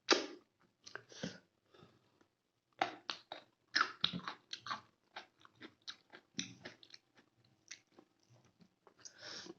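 Close-up chewing and eating sounds of chicken gravy and rice: irregular wet mouth clicks and chews, several close together from about three seconds in.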